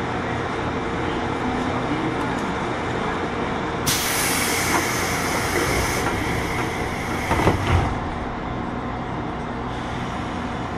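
JR 201-series thyristor-chopper electric train running, heard from inside a motor car: steady wheel and motor noise with a faint steady hum. About four seconds in a loud hiss starts suddenly and lasts about four seconds, with two knocks near its end.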